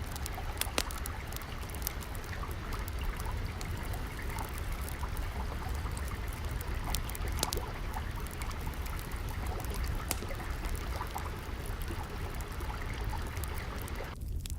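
Water flowing and trickling steadily, with a wood fire crackling in scattered sharp pops over it.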